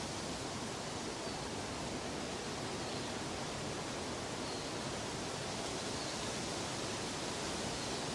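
Steady, even rushing noise with no pitch, rhythm or change, a nature ambience much like falling or flowing water.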